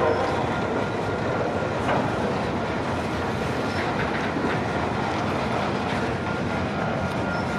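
CPKC freight train cars rolling past, their wheels clicking over the rail joints with a steady rumble.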